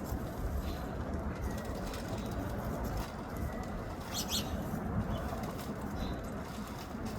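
Birds calling, a few short high chirps, the clearest about four seconds in, over a steady low background rumble.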